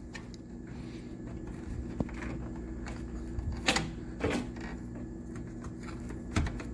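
A few light clicks and knocks of hands and tools handling electrical wires, over a steady low hum.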